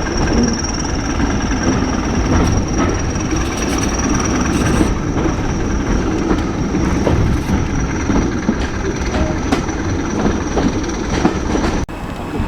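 Heritage railway train running along the track: a continuous rumble of wheels on rail with scattered clicks over the rail joints and a thin high whine. The sound cuts off abruptly near the end.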